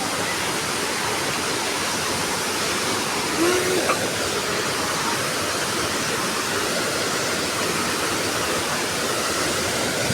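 Waterfall: a steady, even rush of falling water, with a brief short sound about three and a half seconds in.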